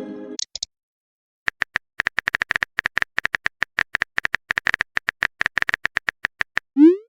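Typing sound effect: rapid, irregular keyboard clicks, several a second, for about five seconds, ending in a short rising whoosh like a message being sent. The tail of a message chime sounds at the start.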